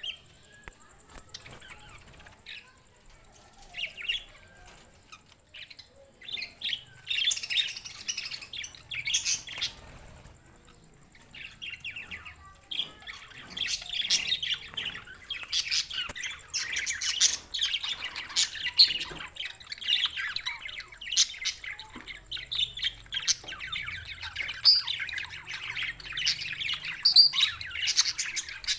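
Budgerigars chirping and chattering: a few scattered chirps at first, then nearly continuous warbling chatter with squawks from about halfway in.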